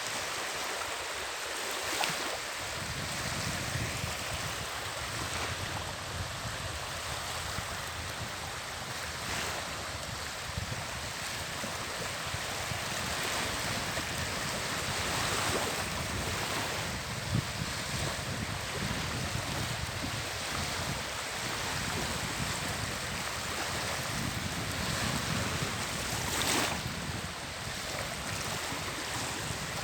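Wind blowing over the microphone with a low, gusty rumble, over the steady wash of small sea waves on the shore.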